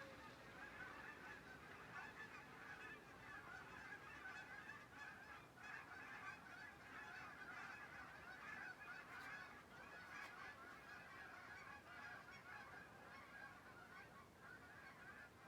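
A flock of Canada geese honking, many calls overlapping in a continuous faint chatter.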